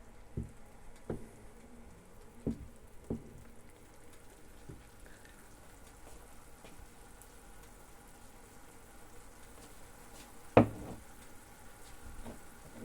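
Food frying in a pan, with a utensil knocking against the pan several times. The loudest knock comes about ten and a half seconds in.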